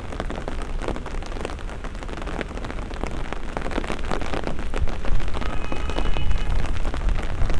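Steady rain falling, with many close drops ticking sharply. A brief high tone sounds about six seconds in, and a low rumble builds near the end.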